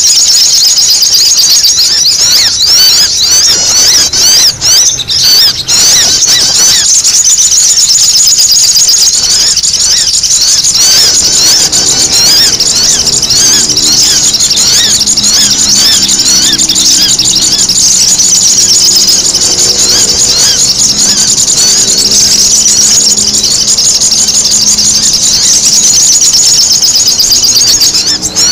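A spiderhunter (sogok ontong) recording used as a bird lure: a constant, noisy chorus of rapid, high-pitched chattering calls with no pause. A fainter low hum runs underneath from about a third of the way in.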